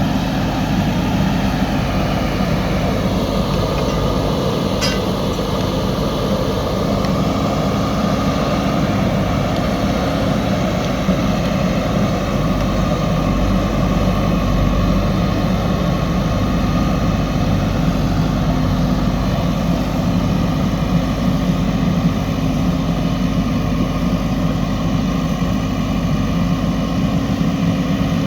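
JCB 3DX backhoe loader's diesel engine running steadily, with one short click about five seconds in.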